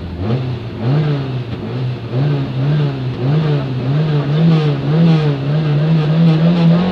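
Peugeot 205 rally car's engine, heard from inside the cockpit, revved up from idle at the stage start and held high on the throttle, the revs rising and falling about twice a second while waiting to launch. Right at the end the revs dip.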